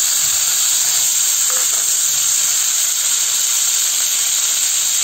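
Diced kohlrabi sizzling steadily in hot mustard oil in a frying pan, the pieces just tipped in and being spread with a wooden spatula.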